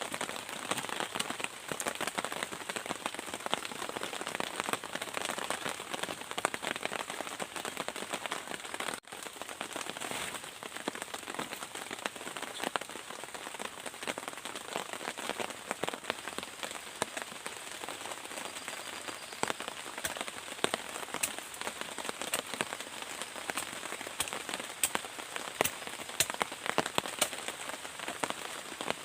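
Heavy rain falling steadily, with many separate drops striking close by. There is a brief drop-out about nine seconds in.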